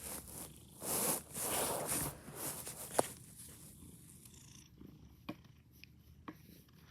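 Domestic cat purring in swells, loudest in the first couple of seconds and fainter after, with a few small clicks.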